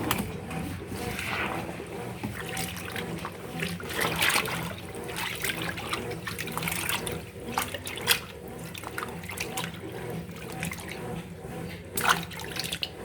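Electrolux LF75 washing machine running its wash cycle: water splashing and trickling in the tub in irregular surges over a steady low motor hum.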